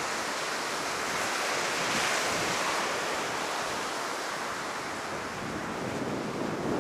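High ocean surf pounding the beach in a rough post-typhoon swell, a continuous rush of breaking waves that swells a little about two seconds in, with wind buffeting the microphone.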